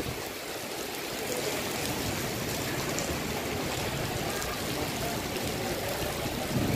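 Heavy rain pouring down steadily, with water running and splashing.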